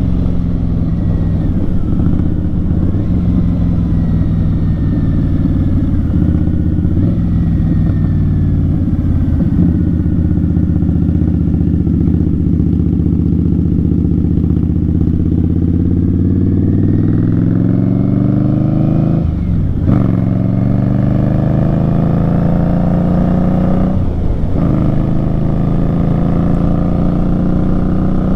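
2018 Indian Scout Bobber's V-twin engine through Vance & Hines slash-cut mufflers, running steadily under way, then pulling harder from about 16 seconds in: the pitch rises, breaks off sharply twice as the rider shifts up, and climbs again after each shift.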